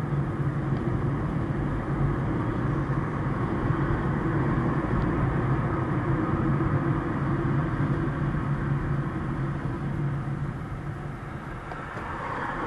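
A car driving: steady engine and road noise with a low, even drone.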